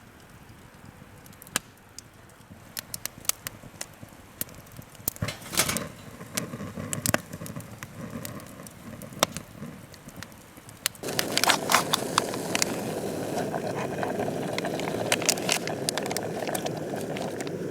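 Wood campfire crackling, with scattered sharp pops and snaps. About eleven seconds in, a steady hiss abruptly gets louder, and the pops carry on over it.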